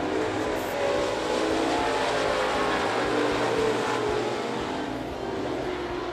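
Several dirt late model race cars' V8 engines running at speed together, swelling as the pack goes by and easing off slightly toward the end.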